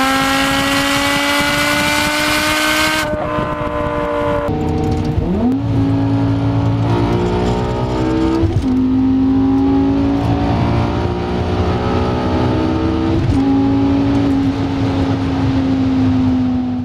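BMW M6's 5.0-litre V10 breathing through an Eisenmann race exhaust with straight pipes, pulling hard under acceleration. It is heard first from outside the car's flank, then from inside the cabin, where the note climbs and drops back at two upshifts before easing off near the end.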